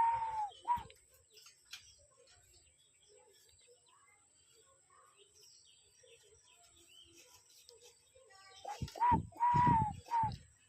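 Spotted dove cooing: a phrase of short coos around one long drawn-out coo. It ends just after the start, and a second phrase comes near the end.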